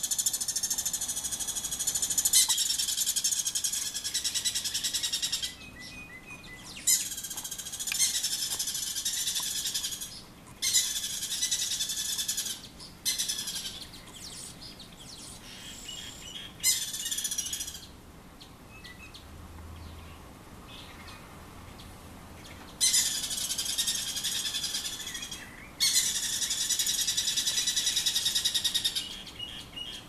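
Birds giving harsh, rapidly stuttering alarm calls in repeated bursts of a few seconds, with quieter gaps between: scolding alarm set off by a cat.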